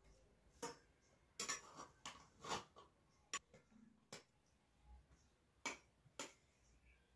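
Quiet, irregular clicks and light taps of eating from a plate, about nine in all, with short gaps between them.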